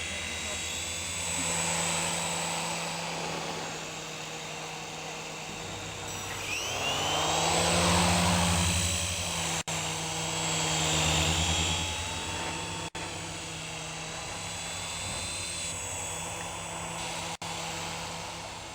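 Skytech M3 toy remote-control helicopter in flight: the small electric motors whine steadily over the buzz of the rotor blades. The sound swells louder twice, with the pitch sweeping up and down, as the helicopter moves closer and away, and it cuts out for an instant three times.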